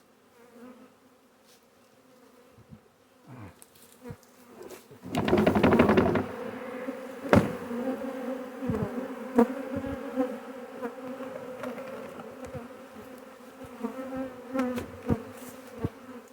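Honey bee swarm buzzing: a steady hum that is faint at first and grows louder about five seconds in. A loud rough burst and a few sharp knocks from the hive boxes being handled sound over it.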